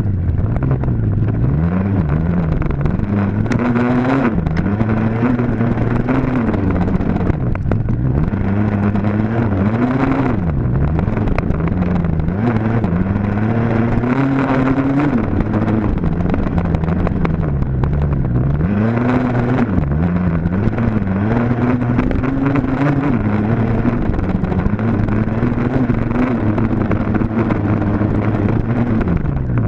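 Dirt bike engine running hard, its pitch rising and falling every second or two as the throttle opens and closes through the gears.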